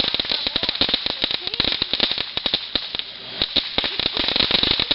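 Consumer fireworks crackling: a rapid, dense run of sharp pops, thinning briefly about three seconds in.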